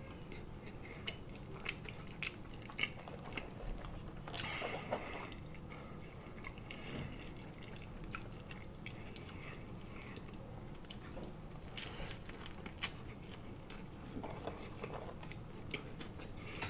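Close-miked chewing and lip-smacking of a person eating a crispy fried chicken sandwich, full of small wet clicks, with a fresh bite taken around the middle.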